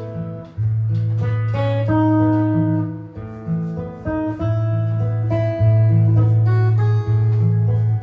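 Jazz guitar improvising, with plucked melody notes and chords over low sustained bass notes that change every second or two.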